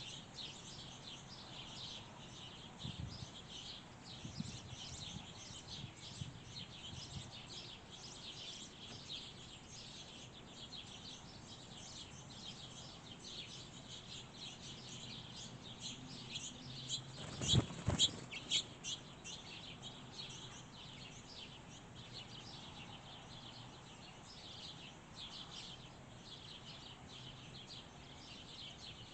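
Small songbirds chirping quickly and continuously, with a faint low hum underneath. Just past the middle comes a short cluster of a few loud knocks.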